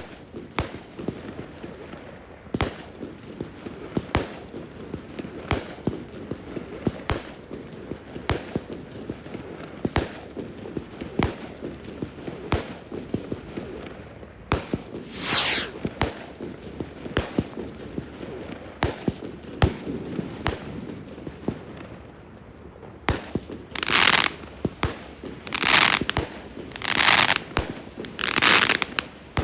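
Fireworks display: a steady run of sharp bangs about every second and a half over continuous crackling. Longer crackling bursts come once midway and four times in quick succession near the end.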